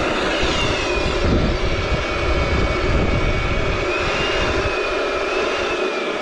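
Electric balloon inflator pump running: a steady motor whine that rose quickly as it switched on and holds with slight wobbles in pitch, over a loud rush of air.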